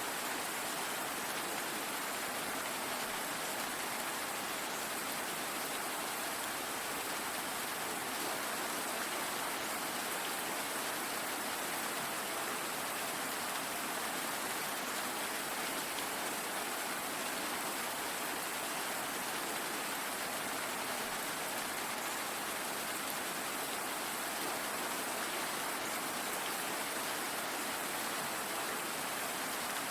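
Steady rain falling, a constant even hiss without thunder or distinct drops.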